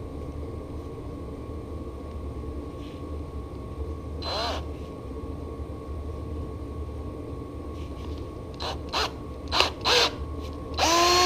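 Electric drill running with a cotton bud in its chuck, cleaning rust from a small bicycle handlebar bolt. It gives a steady whine, with a few short louder bursts near the end.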